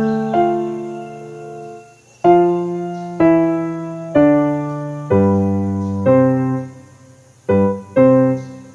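Slow, calm piano music: chords struck about once a second, each left to ring and fade, the last one dying away near the end.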